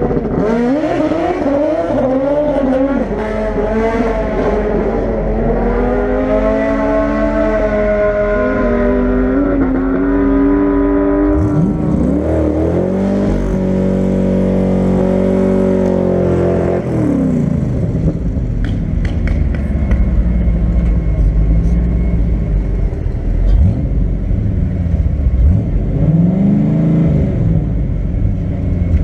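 Factory Five Cobra replica's engine running in the staging lanes, heard from the open cockpit, its revs rising and falling unevenly for the first ten seconds or so. A louder, denser engine sound with sweeping changes in pitch follows for a few seconds, then a steadier, lower idle with a couple of short blips near the end.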